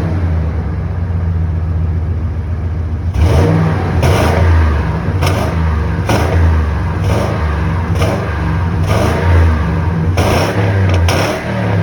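Ford 5.4 L V8 heard from the exhaust outlet on a cold engine. It idles for about three seconds, then gets a series of short throttle blips, roughly one a second, to the end.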